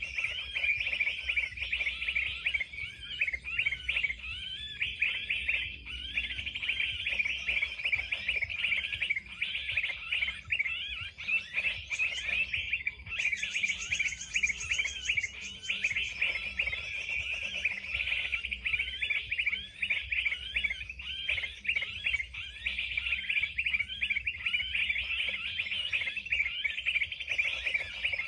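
Gelatik birds chirping continuously in quick, overlapping calls, the chatter used to draw birds to a birdlime trap. About halfway through, a rapid high-pitched trill joins in for a few seconds.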